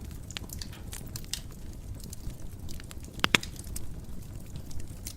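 Wood fire burning in a fireplace: a steady low rumble with irregular crackles and snaps, and two louder pops in quick succession a little past the middle.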